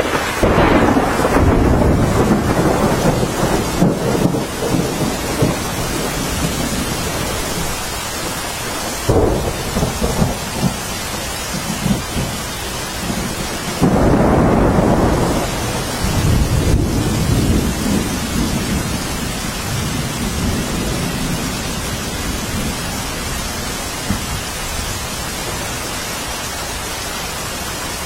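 Steady rain with thunder rolling over it. One peal breaks right at the start and rumbles on for several seconds, a shorter one follows about nine seconds in, and a louder one comes about fourteen seconds in and dies away over the next several seconds.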